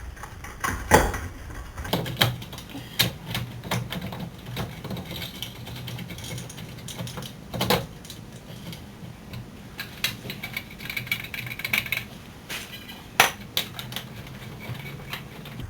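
Irregular metallic clicks and clinks of steel brake caliper bolts and tools being handled while the caliper mounting bolts are threaded in by hand, with a sharper knock about a second in and another near the end.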